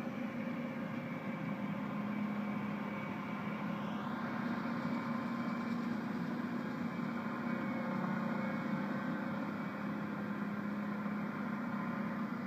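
An engine running steadily at an even speed, a constant hum with no change in pitch.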